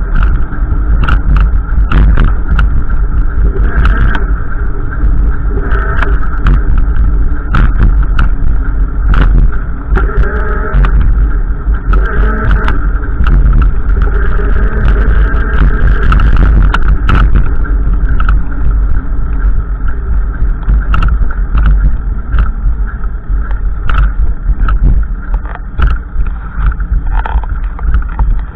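Strong wind buffeting the microphone: a loud, continuous low rumble with frequent crackles.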